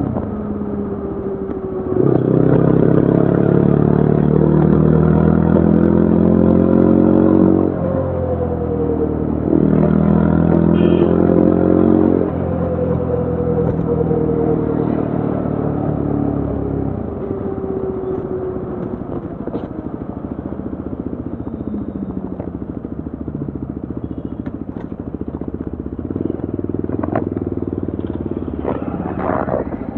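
Yezdi Adventure's single-cylinder engine and exhaust under way: the note rises under acceleration about two seconds in, dips at a gear change, rises again, then falls away slowly as the throttle is closed. It settles into a steady, lower run, with a few sharp ticks near the end.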